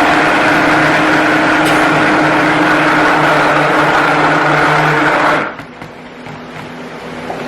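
Stick blender running steadily in soap batter, switched off about five and a half seconds in.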